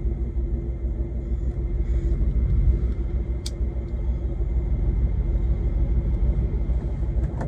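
Semi truck's diesel engine rumbling steadily, with a constant hum over the low drone and one brief click about three and a half seconds in.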